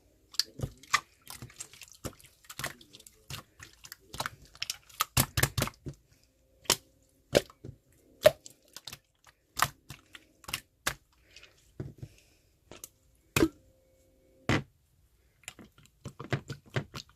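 Slime being squeezed and pressed by hand, making irregular sharp pops and clicks, some in quick clusters.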